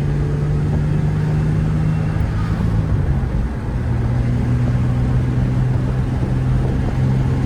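Infiniti G35's swapped-in V6 engine running steadily under way, a constant drone. About three seconds in, the note briefly dips, then carries on.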